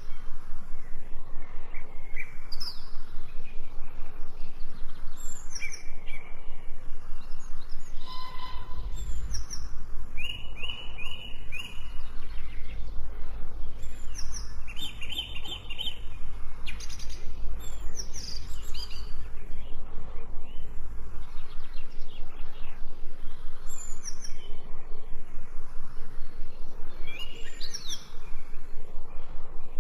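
Wild birds chirping and singing in short repeated phrases and trills over an even, rapid pulsing background. A low rumble runs through the middle stretch.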